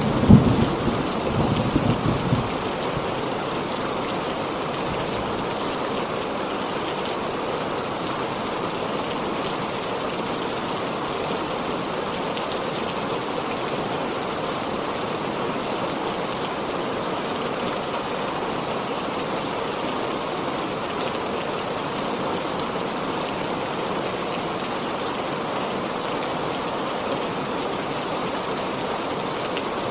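Heavy rain falling steadily, an even hiss. A low thunder rumble fades out over the first couple of seconds.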